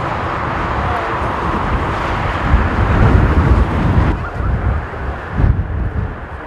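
Strong gusty wind buffeting the microphone over the rushing roar of a jet airliner's engines, which drops away about four seconds in.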